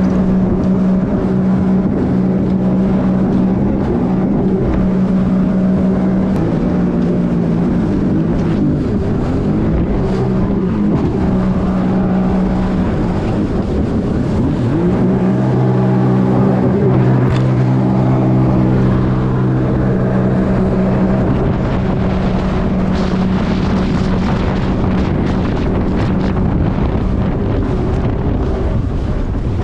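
Sea-Doo jet ski engine running at speed, with wind rushing over the microphone. The engine note steadies, wavers and drops for several seconds in the middle, then rises back and holds steady.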